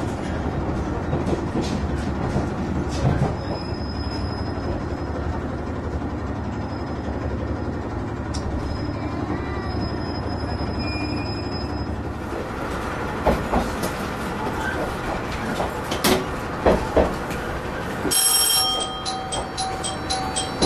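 A KiHa 110 diesel railcar running on the line, heard from inside the cabin as a steady rumble of engine and wheels on rail, with a thin high whine that comes and goes through the first half. Later come a few sharp knocks, and near the end a repeating beeping tone begins.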